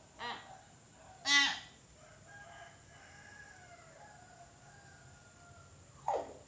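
Nias hill myna calling: a short call near the start, a loud call about a second in, faint thin whistles through the middle, and a call sliding downward in pitch near the end.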